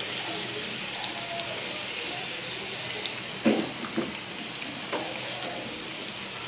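Stuffed okra and spice masala sizzling steadily in oil in a non-stick pan. A few short knocks and scrapes of a spatula against the pan and a small bowl come between about three and a half and five seconds in, as the okra is lifted out.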